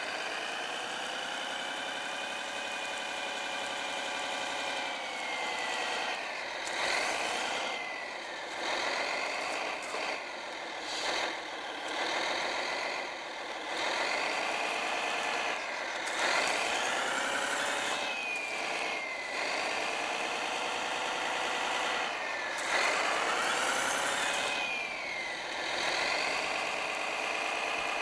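Simulated diesel engine sound from a Servonaut SMX sound module in a Kyosho Blizzard radio-controlled snowcat, played through its small speaker with little bass. The engine revs up and down several times, and a high whine glides down in pitch now and then.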